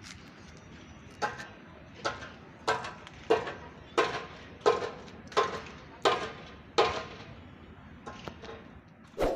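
A series of evenly spaced ringing knocks, about one every 0.7 seconds, growing louder and then fading, with a few weaker knocks near the end.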